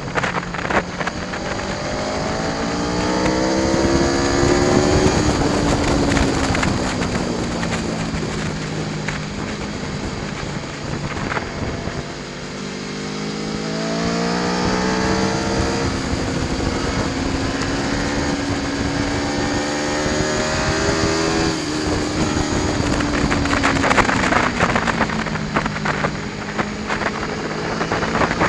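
Aprilia Tuono V4 1100 Factory's V4 engine pulling hard, its pitch climbing as the bike accelerates, then falling away as it slows, twice over, and rising again near the end. Wind rushes over the microphone throughout.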